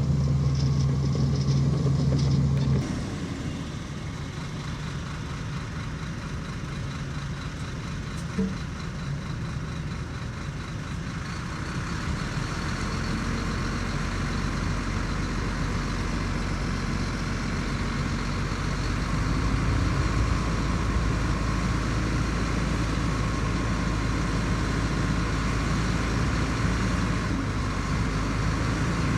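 Heavy diesel engine running: a loud steady drone that drops off suddenly about three seconds in, then a lower rumble that builds up again later.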